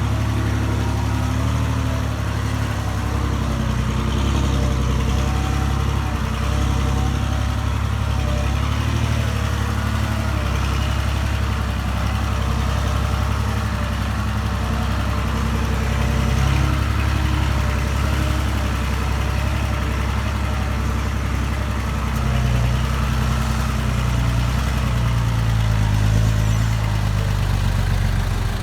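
Diesel engine of small earthmoving machinery running steadily with a low, deep note that swells a little a few times.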